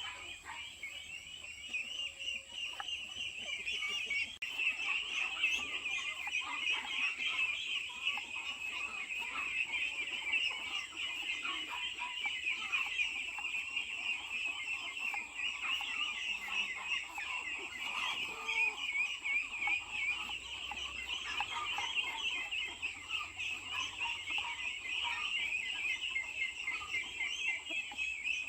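A flock of chickens calling without a break, many short high calls overlapping into a constant chatter.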